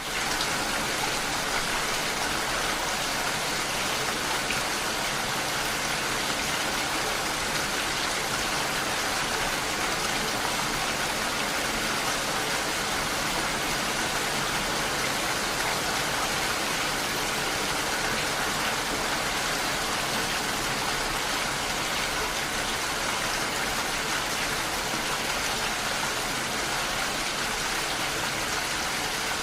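Steady rain pattering on window glass: an even hiss with no let-up, coming in quickly right at the start.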